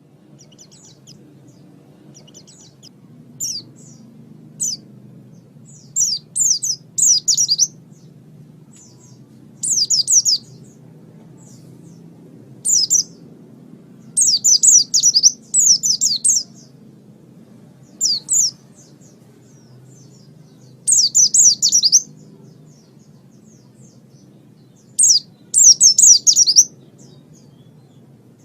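Pleci (white-eye) singing: short bursts of rapid, high-pitched twittering notes, each a second or two long, repeated about a dozen times with pauses between, over a faint steady low hum.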